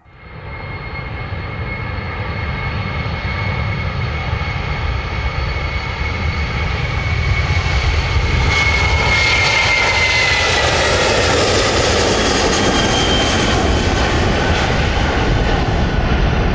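Turkish Airlines Airbus A330's twin jet engines at takeoff power, building steadily in loudness as the airliner rolls closer, with a high whine that slides down in pitch about nine to ten seconds in as it passes, then a steady loud rumble.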